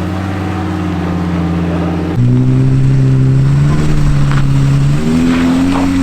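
Off-road truck's engine running steadily, then revving up sharply about two seconds in and holding high revs. Its pitch steps up again near the end.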